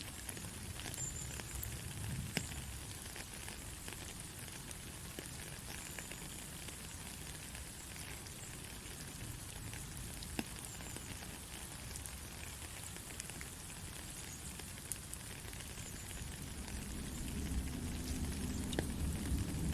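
Gentle rain falling: a steady fine hiss with scattered sharp drop ticks, and a low rumble that swells over the last few seconds.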